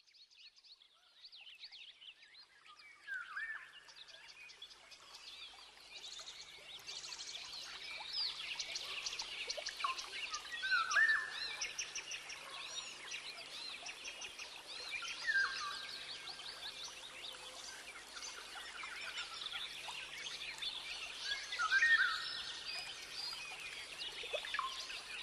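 Many birds chirping and calling together, fading in over the first few seconds, with a louder, lower call repeating every few seconds.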